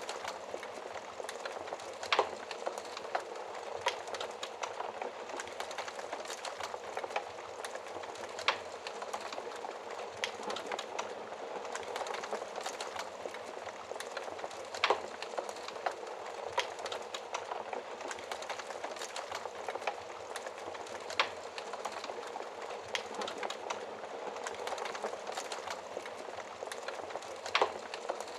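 Wood fire in a fireplace crackling steadily, with a sharper pop about every six seconds.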